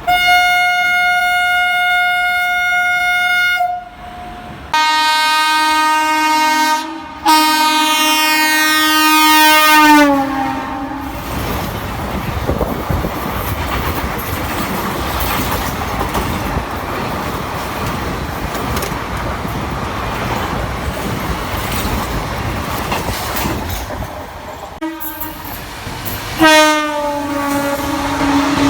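Passing high-speed train: an Indian Railways electric locomotive sounds three long horn blasts, the pitch of the last dropping as it passes, then the coaches rush by with wheel clatter on the rails. Near the end a second train sounds a horn blast that falls in pitch as it goes by.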